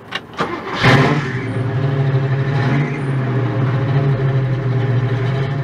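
Car engine: a couple of clicks, then the engine fires with a loud rev about a second in and settles into a steady, deep idle that starts to fade near the end.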